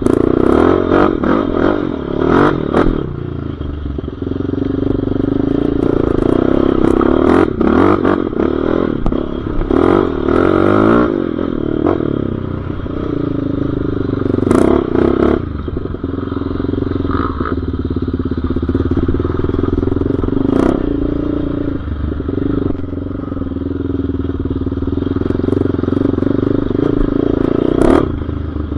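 Off-road motor vehicle engine running under riding, its note rising and falling with the throttle. Repeated sharp knocks and clatter come from the machine running over rough ground.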